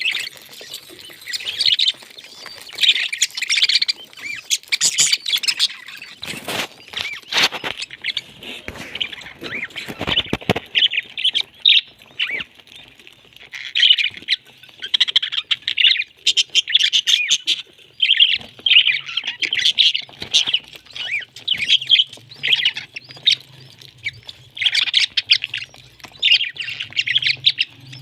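Pet parrot making many short chirps and squawks in quick succession. A few loud knocks or thumps come about a third of the way through.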